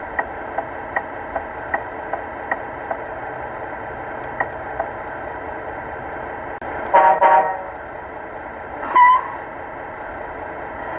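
Vehicle horn giving two short blasts in quick succession about seven seconds in, with a shorter tone near the nine-second mark. Underneath is a steady hum, and a regular ticking of about two to three ticks a second runs for the first few seconds.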